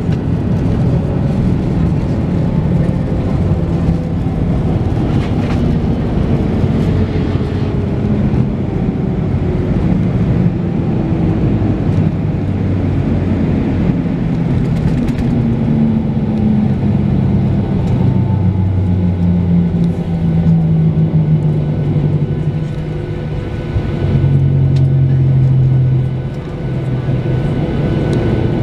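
Cabin noise of a Boeing 737-800's jet engines slowing down after landing, their pitch falling steadily over some twenty seconds as the aircraft decelerates on the ground. A louder steady hum swells briefly near the end.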